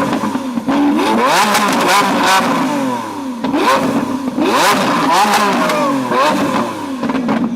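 A vehicle engine revving, its pitch climbing and dropping several times.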